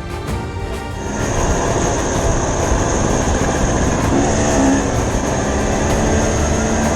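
Dirt bike engine running under a steady rushing noise that gets louder about a second in, with a low engine note coming through from about four seconds in.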